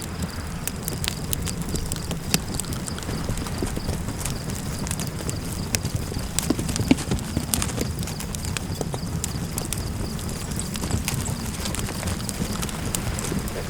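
Campfire crackling, with many irregular sharp pops and snaps over a steady low rumble of fire and wind. A thin, steady high tone runs underneath.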